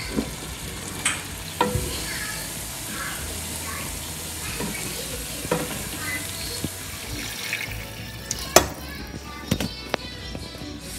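Spiced potatoes, cauliflower and peas sizzling in a pot while a wooden spatula stirs and scrapes through them, with sharp knocks of the spatula against the pot, the loudest about two-thirds of the way in. Near the end the sizzle eases as water goes into the pot.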